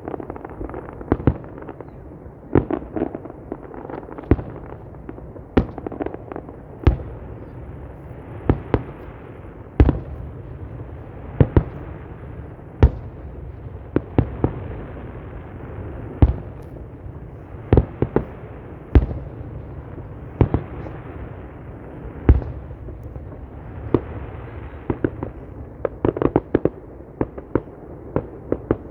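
Aerial fireworks display: sharp bangs of bursting shells about once or twice a second at irregular intervals, over continuous crackling and rumble.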